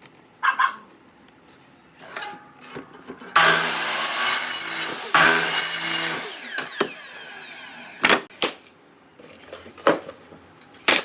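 A power saw cuts wood in a loud run of about three seconds, briefly broken once, then its motor winds down. Wooden knocks and handling of boards come before and after.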